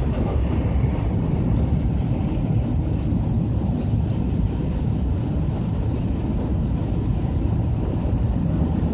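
Steady low rumble and hiss of an E2-series Shinkansen train running, heard from inside the passenger cabin.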